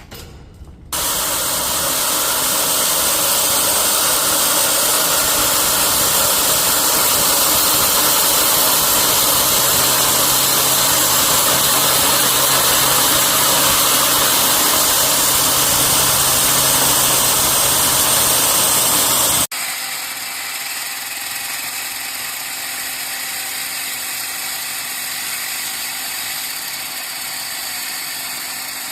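Concrete-cutting power tool running with a loud, steady, noisy sound that starts suddenly about a second in. About two-thirds of the way through it cuts off abruptly, and a quieter, steady machine whine with a low hum takes over.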